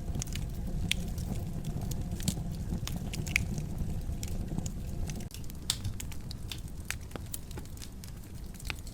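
Wood fire in a fireplace crackling, with irregular sharp pops and snaps over a low rumble that drops away abruptly about five seconds in.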